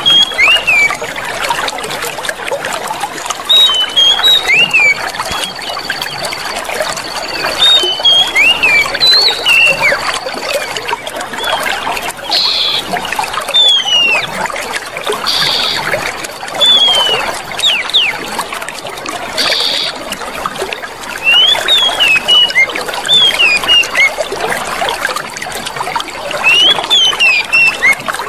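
Clear running water trickling and splashing steadily, with small birds chirping short rising and falling calls over it. A thin high steady tone runs through most of it, and three short louder notes come in the middle.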